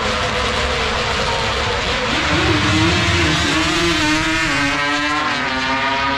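A race car engine running loud at high revs over a rushing background noise. Its pitch dips about four seconds in.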